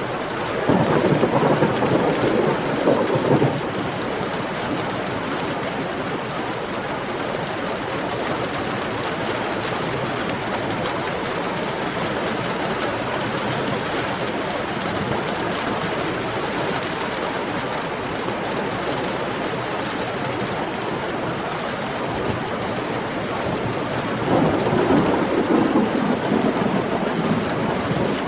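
Heavy rain falling steadily, with two louder rumbles of thunder, one about a second in and one near the end.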